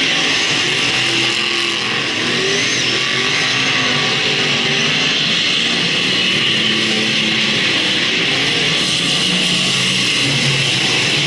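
Several speedway race cars' engines running together, their pitches rising and falling as they lap the track, over a steady noise.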